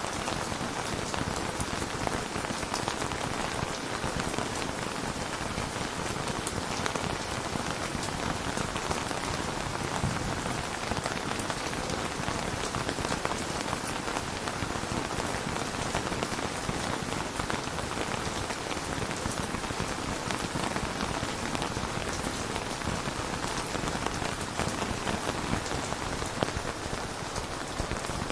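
Steady rain: a dense, even patter of many raindrops.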